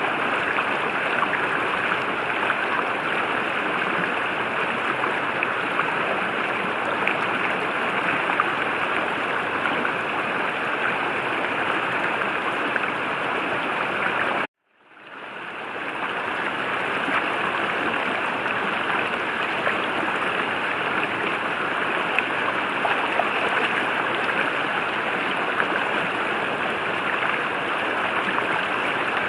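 River water rushing steadily. About halfway through it cuts to silence for a moment and fades back in over a second or so, a join between two recordings.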